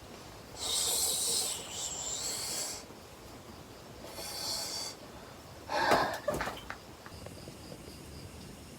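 A person's breathing close to the microphone: two long hissing breaths, then a shorter, louder one about six seconds in.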